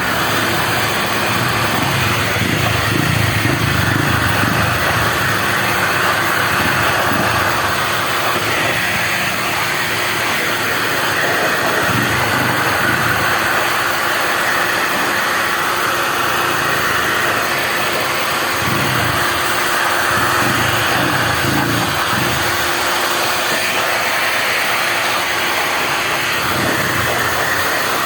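Handheld electric blower running steadily with a motor whine, blowing dust out of an amplifier's chassis.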